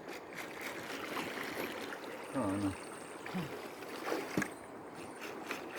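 River water flowing: a steady rushing hiss. A brief voice sounds about halfway through.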